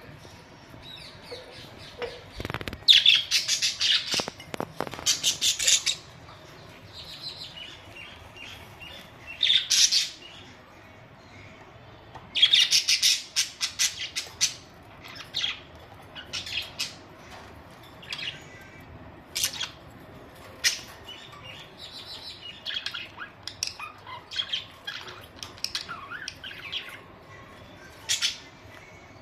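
Budgerigars chirping and chattering in short high calls, with two louder flurries of rapid calls, one about three to six seconds in and another about twelve to fifteen seconds in.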